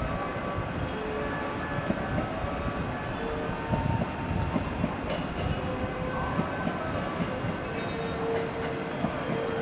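Hello Kitty-liveried 281 series limited express Haruka passing through the station without stopping: steady running noise of the wheels on the rails, with faint brief squeals.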